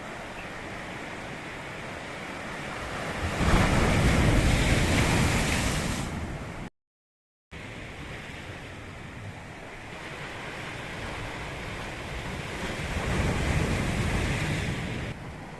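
Sea waves breaking and washing up the shore, rising into a louder surge twice. About seven seconds in the sound cuts out completely for under a second, then resumes.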